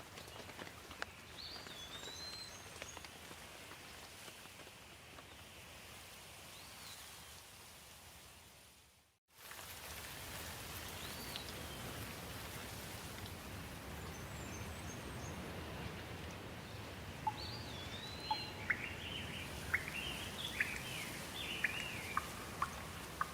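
Steady rain with birds chirping over it. The sound fades away to silence about nine seconds in and comes back abruptly. Near the end, a quick run of sharp bird chirps.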